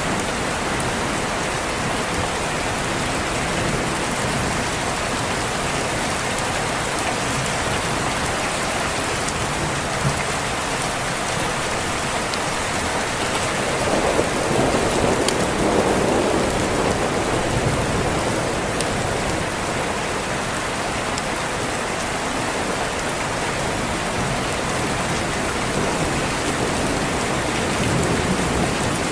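Steady rain on a window, with a low rumble of thunder swelling up about halfway through and fading again.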